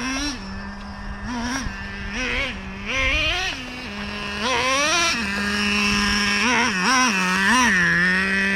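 Traxxas Revo 3.3's TRX 3.3 two-stroke nitro engine idling, its throttle blipped about nine times in short revs that rise and fall back to idle.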